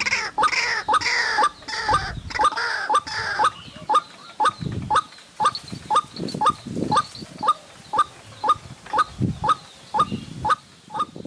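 White-breasted waterhen calling: a short, sharp note repeated about twice a second, with a louder, wavering call over the first few seconds.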